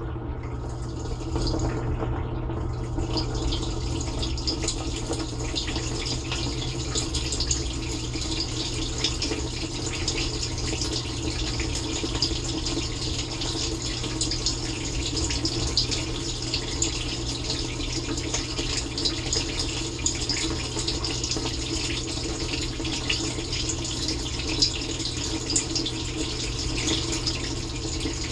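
Dishwasher mid-cycle from inside the tub: water from the spray arms splashing against the dishes and walls over the steady hum of the wash pump. The spray briefly drops out near the start, then runs steadily.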